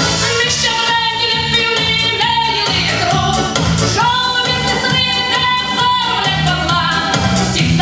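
A song performed with a vocal melody over a backing track with a steady beat.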